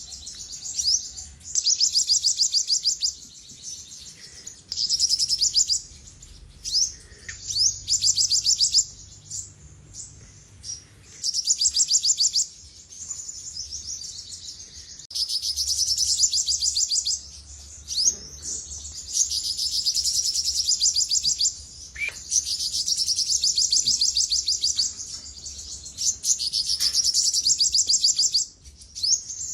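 Olive-backed sunbird singing: fast, high-pitched trills lasting one to three seconds each, repeated after short pauses, with a few sharp single notes in between.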